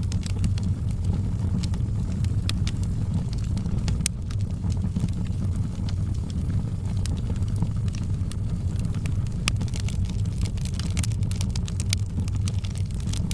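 Wood fire burning in a fireplace: scattered sharp crackles and pops over a steady low rumble, the crackles coming thicker in the last few seconds.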